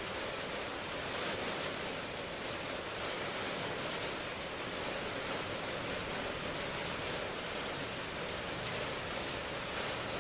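Steady rain falling, an even hiss of drops with no distinct thunder or single impacts.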